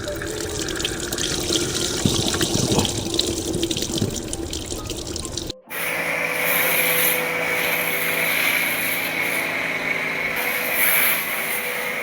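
Water running and splashing in the first half, cut off suddenly about halfway. A steady machine hum with a hiss takes over for the rest.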